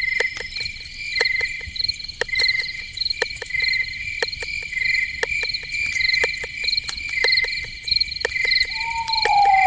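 Night insect chorus: crickets chirping in quick, evenly pulsed trills, with many sharp clicks mixed in. Near the end a single whistled call slides downward in pitch.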